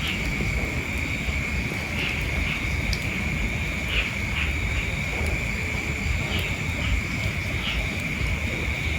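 Outdoor ambience of animal calls: a steady high-pitched drone with short chirps every second or so, over a low rumble.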